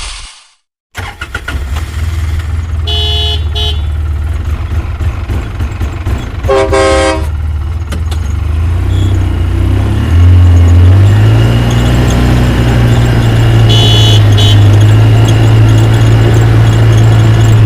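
Truck engine running with a steady low rumble that climbs in pitch about halfway through, with a vehicle horn honking briefly three times over it.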